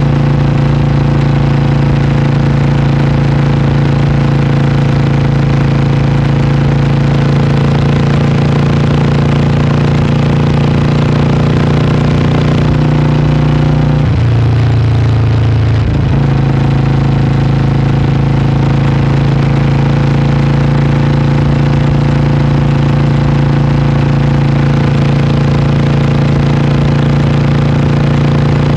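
Vintage single-cylinder motorcycle engine running steadily under way. Midway its note dips lower for about two seconds, then picks back up.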